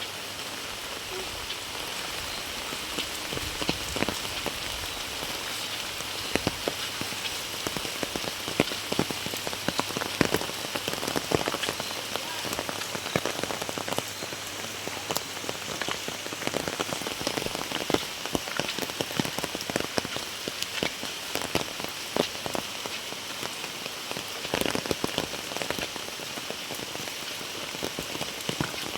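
Heavy rain falling steadily, with many irregular sharp drops striking close by.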